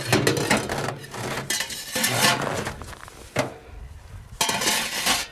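Sheet-metal parts of a camping tent stove being handled and unpacked: irregular clanks, clinks and scraping.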